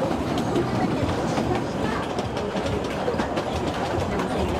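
Kurobe Gorge Railway trolley train running along the narrow-gauge track: a steady rumble of wheels on rail with frequent small clicks.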